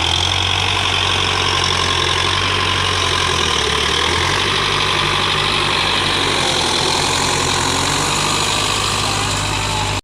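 Belarus tractor diesel engine running steadily, a loud low drone whose pitch shifts about four seconds in.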